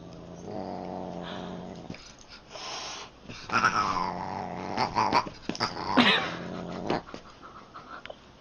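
A pet animal growling in low rumbling stretches, broken by a few short calls that bend in pitch, the strongest about six seconds in.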